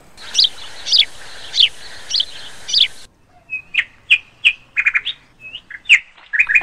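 Small birds chirping: five evenly spaced chirps over a steady hiss, then, after an abrupt cut about three seconds in, a quicker scatter of short chirps and calls.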